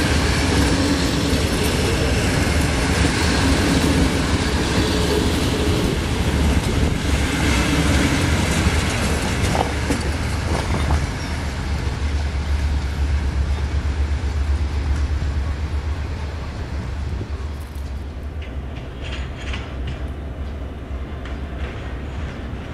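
Passenger coaches rolling past on the rails: a steady, heavy rumble of wheels on track that drops away from about eleven seconds in as the last coach moves off.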